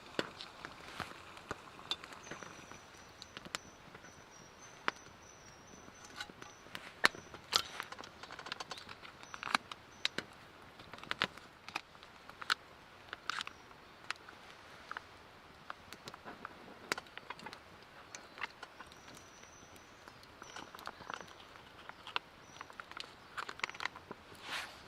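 Scattered short clicks and snaps at irregular intervals, a few of them sharper and louder than the rest, over a faint, thin, high steady tone that comes and goes twice.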